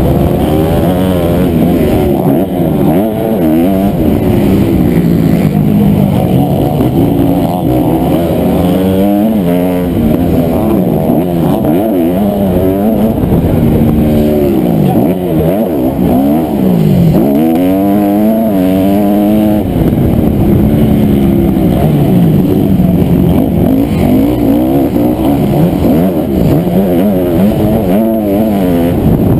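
Honda CRF250R's single-cylinder four-stroke motocross engine, loud and close, revving up and down again and again, its pitch rising and falling as the rider accelerates, shifts and backs off around the track.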